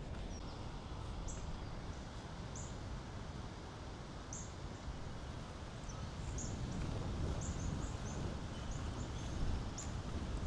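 Small birds giving short, high chirps at irregular intervals, more often in the second half, over a steady low outdoor rumble.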